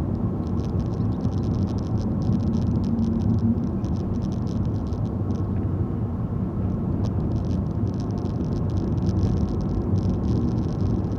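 Car interior noise while driving: steady engine and tyre rumble, with light rattling clicks that come and go.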